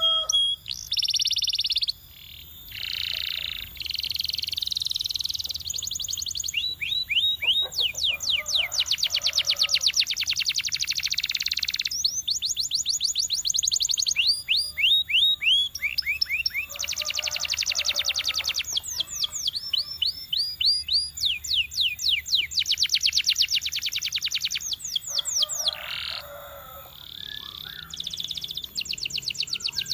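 Domestic canary singing: phrases of rapidly repeated high notes, each trill held for a second to a few seconds before switching to a different note type, with short pauses between.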